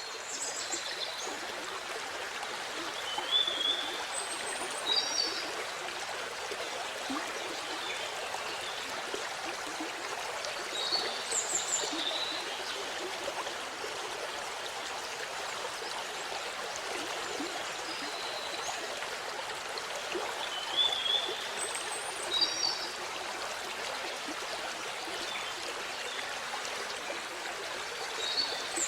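Waterfall: a steady rush of falling water, with short high bird chirps breaking in every few seconds.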